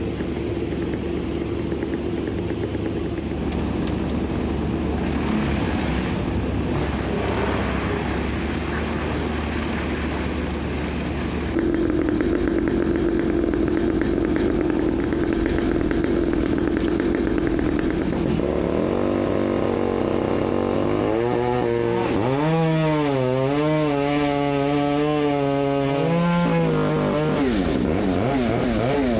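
Engines running steadily. In the second half one engine revs, its pitch rising and wavering up and down for several seconds before dropping off near the end.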